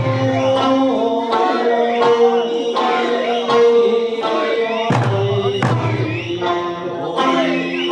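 Eisa music: voices singing a melody, with a few sharp drum strikes, one at the start and two more about five seconds in.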